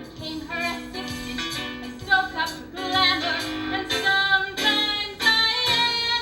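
A woman singing a show tune over a small band accompaniment, the voice held on bright sustained notes.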